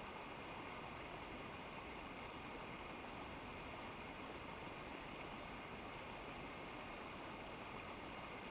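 Steady rushing water of a mountain stream or waterfall, an even hiss with no changes.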